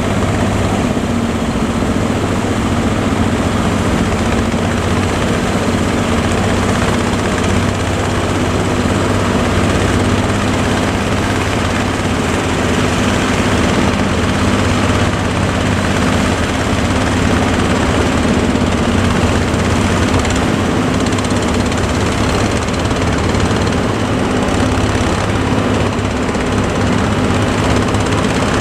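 A boat engine running steadily at an even speed, a constant low hum, with a broad rushing noise over it.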